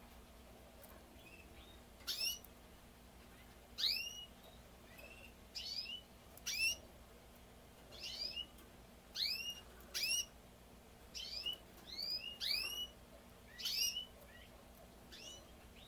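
Male canary giving short, separate chirps, each arching up and falling in pitch, about a dozen at irregular intervals starting about two seconds in.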